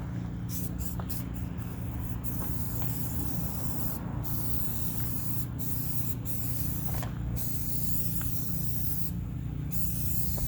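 A sprayer hissing as liquid is sprayed onto the car's tires. The hiss runs almost continuously, breaking off briefly four or five times, over a steady low hum.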